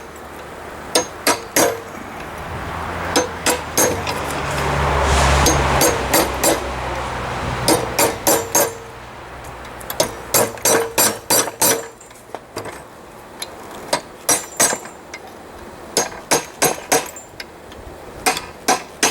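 Hand hammer striking a hot railroad spike on an anvil in quick runs of blows with short pauses, drawing out steel for the elephant head's ears. Each blow gives a short metallic ring. A steady rushing noise with a low hum swells and fades in the first half.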